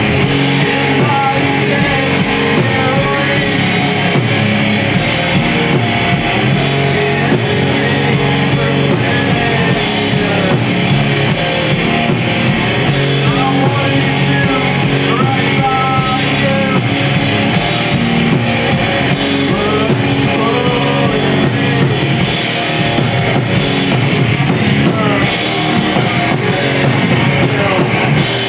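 Live rock band playing, with electric guitar, drum kit and singing, loud and steady throughout.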